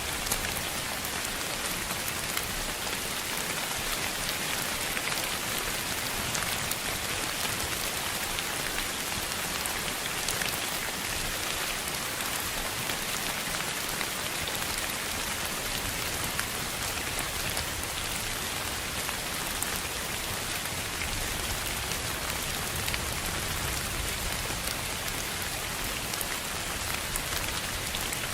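Steady heavy rain falling on a surface: a dense, even hiss of drops with occasional sharper ticks. A low rumble swells under it in the later part.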